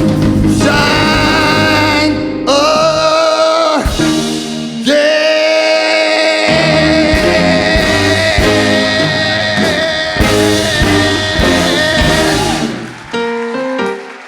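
A male singer holding long notes over a live band with guitar at the close of a song; about thirteen seconds in the music thins out and drops away to a few separate notes.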